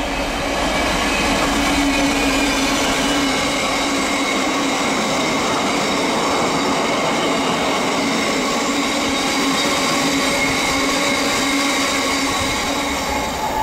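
A freight train passes: a Class 66 diesel locomotive runs through hauling a long line of box wagons, its engine noise mixed with the rolling of wheels on the rails. The sound swells over the first couple of seconds and then holds steady, with a few steady tones over the rolling noise.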